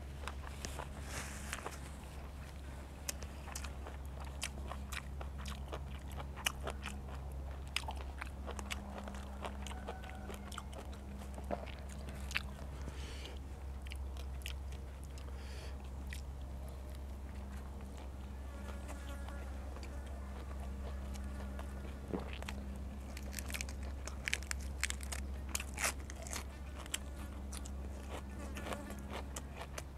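Close-miked eating: chewing and crunching raw beef, sticky rice and fresh raw vegetables, with many sharp wet mouth clicks. A steady low hum runs underneath, with a low buzzing tone that comes and goes.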